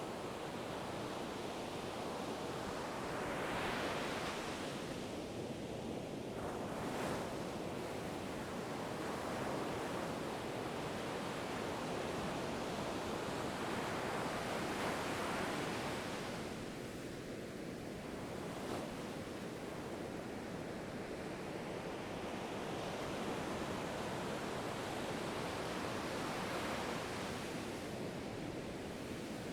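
Ocean waves breaking and washing on a shore, a steady hiss of surf that swells and eases roughly every ten seconds.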